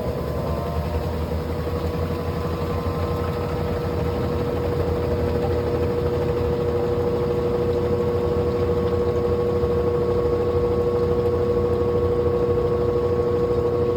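Brastemp washing machine in its spin cycle: the drum and motor running at speed with a steady whine over a low rumble, having just finished spinning up, growing slightly louder about five seconds in.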